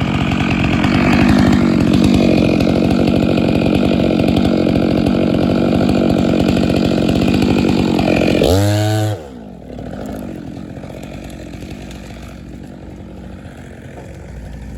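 Two-stroke chainsaw running at high revs, then the throttle is released about eight and a half seconds in. The pitch falls quickly and the saw settles to a much quieter idle.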